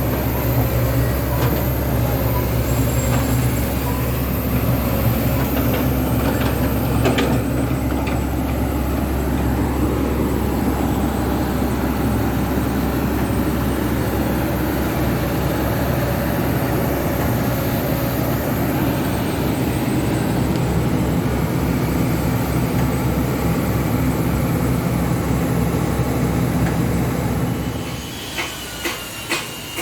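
Kobelco SK200 hydraulic excavator's diesel engine running steadily under load. Near the end the engine sound drops away, and a few sharp metallic clicks and a high squeal follow.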